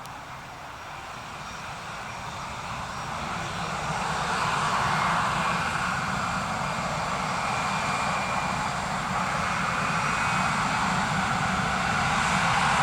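Jet engines of an Airbus A319-111 (CFM56 turbofans) running on the ground, growing steadily louder over the first several seconds, with a faint whine above the rush.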